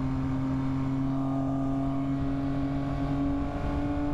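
Yamaha MT-09 motorcycle's inline three-cylinder engine running at a steady cruise, an even engine hum over a low rumble.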